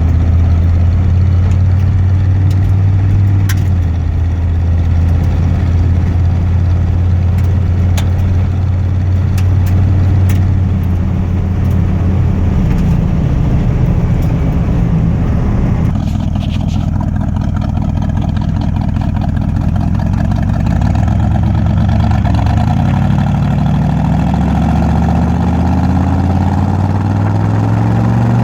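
1974 Ford F-100's 390 FE V8 running through dual exhaust with glass-pack mufflers: a steady low rumble, changing tone a little past halfway, then rising in pitch over the last few seconds as the engine speeds up.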